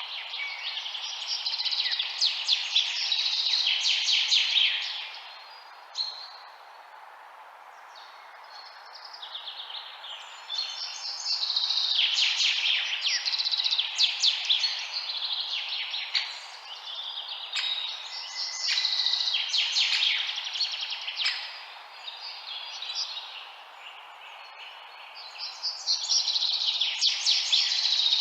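Several small birds chirping and trilling rapidly in bouts of a few seconds, with quieter gaps between, over a steady background hiss.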